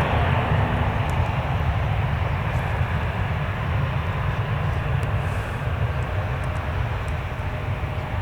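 Jet airliner engine noise: a steady, heavy rumble that eases slightly towards the end.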